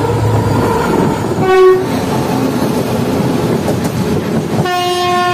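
Rumble of a train running on the rails, with two locomotive horn blasts: a short one about a second and a half in, and a longer one starting near the end.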